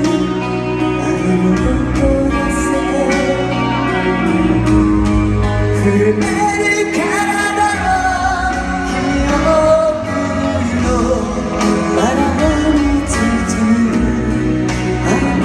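Live rock ballad played by a full band in a large arena, with singing and guitar over a steady, sustained backing.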